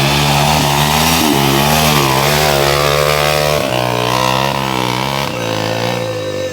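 Motorcycle engine running hard under load, its pitch rising and dropping several times as the throttle is worked, over a steady hiss.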